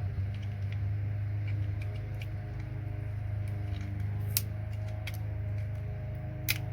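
Side cutters snipping and prying plastic off a small electronic component: small ticks and crackles, with two sharp clicks about four and a half and six and a half seconds in, over a steady low hum.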